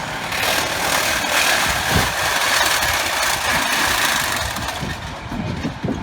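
A vehicle engine running steadily and fairly loud. It swells in within the first half second and eases off near the end.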